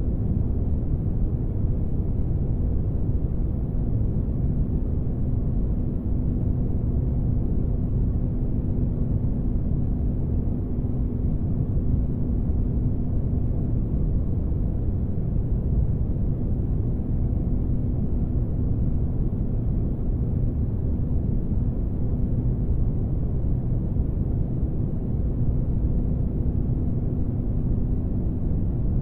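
Spaceship ambience: a steady, deep rumbling noise with a faint constant hum over it, unchanging throughout.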